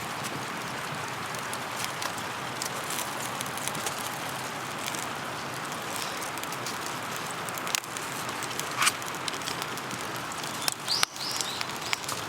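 Steady rain hiss, with a few sharp clicks and taps in the last few seconds.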